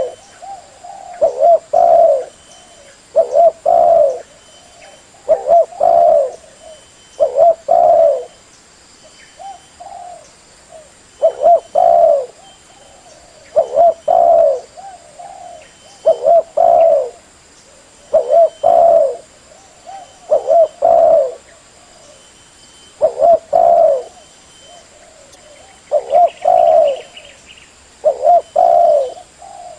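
Spotted dove (tekukur) cooing: loud phrases of a few notes, repeated about every two seconds.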